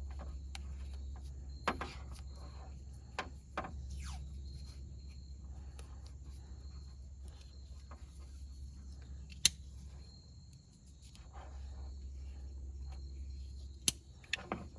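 Insects, crickets by the sound, chirring steadily on a high note, over a low rumble. A few sharp clicks and knocks sound now and then, the loudest about nine and a half seconds in.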